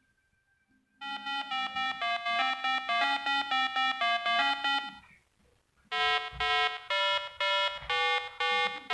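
Short electronic 8-bit style jingle of quick beeping notes, about four a second, in two phrases with a brief pause between them. It begins after a moment of silence.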